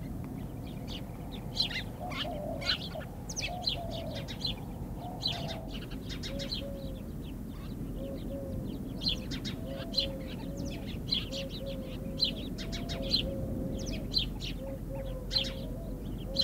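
A flock of small birds chirping, with many short high calls in quick succession over a lower, softer repeated note and a steady low background noise.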